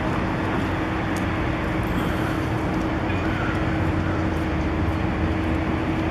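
Steady urban traffic noise with a constant low engine hum.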